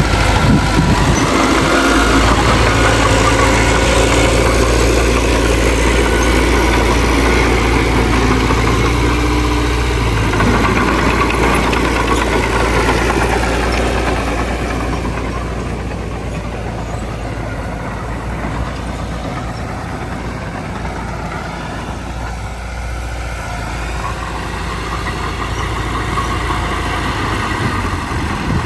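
Heavy diesel engine of earthmoving equipment running steadily, its pitch wavering as it works; it grows somewhat quieter about halfway through.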